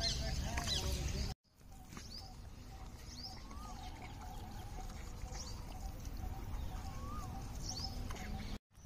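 Small birds chirping outdoors: short rising chirps and a few arched whistles every second or two, over a low rumble that stops at a brief dropout about a second and a half in.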